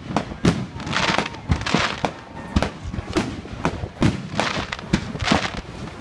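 Fireworks grand finale: aerial shells bursting in quick succession, several bangs a second.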